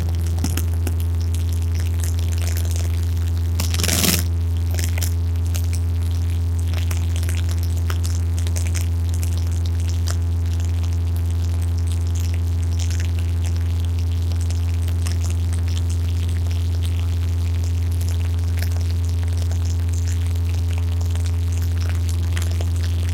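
Cessna 172's piston engine and propeller droning steadily, heard inside the cabin. A brief crackle about four seconds in.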